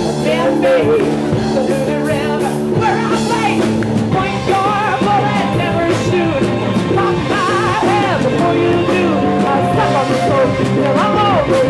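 Live rock band playing with a singer's voice over guitar and drum kit, at full volume.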